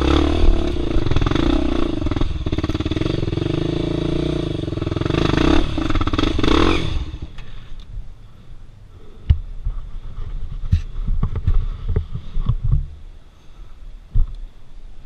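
Dirt bike engine revving hard under load, then stopping abruptly about seven seconds in. Scattered knocks and clattering thuds follow.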